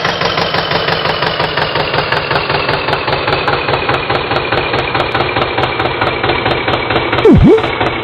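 Tractor engine running with a steady chug, its pitch sagging slightly. Near the end a loud quick swoop dips low and rises straight back.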